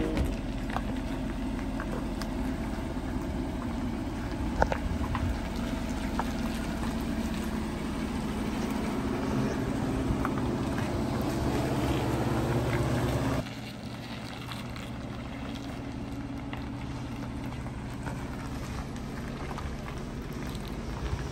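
Freshly rebuilt Chevrolet 5.3-litre V8, with new piston rings and crank, rod and cam bearings, running steadily on its break-in run. About 13 seconds in, the sound drops suddenly to a quieter level.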